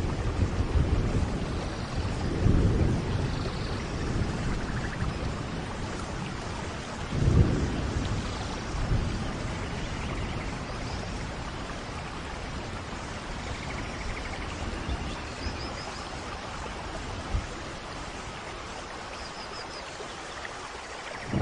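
Steady rainfall in a rainforest thunderstorm, with low rolls of thunder, the strongest about seven seconds in, growing quieter in the second half. A few faint high chirps sound through the rain.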